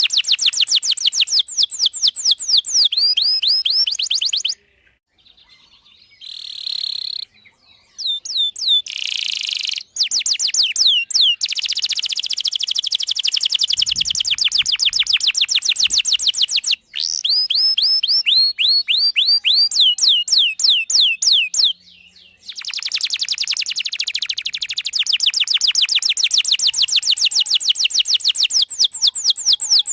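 Domestic canary singing in long, fast trills of rapidly repeated falling whistled notes, broken by a few short pauses.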